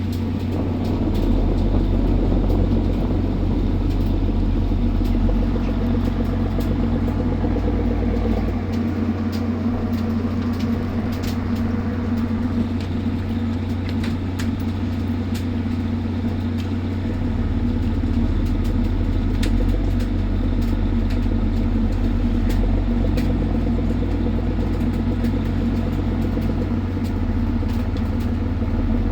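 Fishing boat's diesel engine running steadily, a continuous low drone, with faint scattered ticks.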